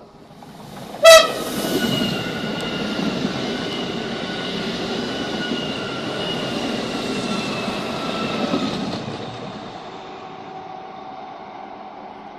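Renfe train passing: a short, very loud horn blast about a second in, then the rumble of the train going by with a steady whine that sinks slightly in pitch, dying away after about nine seconds.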